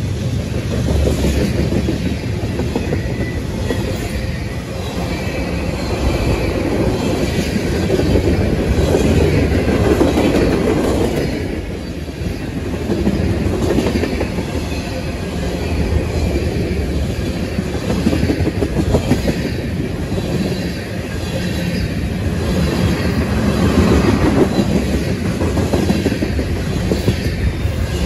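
Freight train of covered hopper cars and boxcars passing close at speed: a loud, steady rumble of steel wheels on rail with a rapid, continuous clatter of the wheels over the track.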